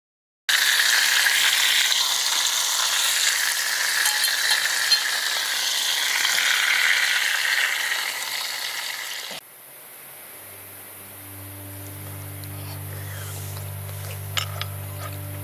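Food sizzling and crackling in a hot pan, a dense steady hiss. About nine seconds in it cuts off abruptly, and calm music with held low notes fades in.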